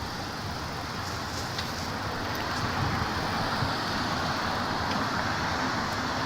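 Steady city street traffic noise heard while riding a bicycle. It is an even rushing sound that grows slightly louder over the first few seconds.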